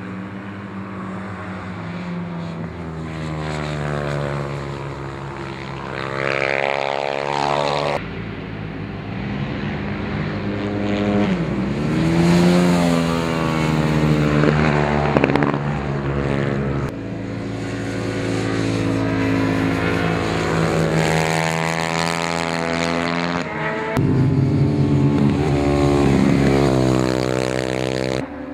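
Moriwaki MD250H race bike's single-cylinder four-stroke engine running hard on a race track, its note rising and falling with throttle and gear changes as it passes. The sound jumps abruptly three times, where separate passes are joined.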